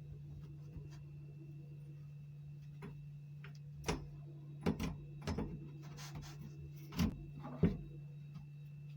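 Clicks and knocks of pipe fittings being handled and fitted under a kitchen sink, about six sharp ones in the second half, over a steady low hum.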